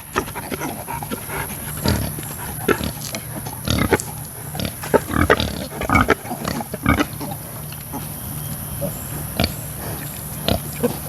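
Pigs in a pen making many short, irregular grunts and calls, close together.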